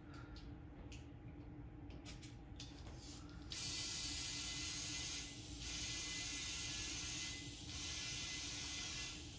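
An air chuck clicks onto a mower tyre's valve stem, then compressed air hisses into the tyre in bursts of about a second and a half with short pauses, filling a rear tyre toward 12 psi.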